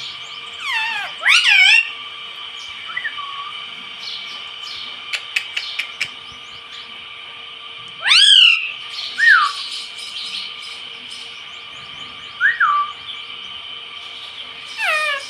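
Indian ringneck parrot calling: loud, screechy calls that sweep up and down in pitch, about a second in, around the middle and near the end, with short falling chirps in between and a quick run of sharp clicks just before the middle.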